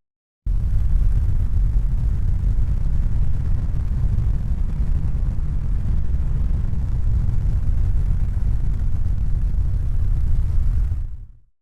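Steady low rumbling noise that starts abruptly and fades out near the end.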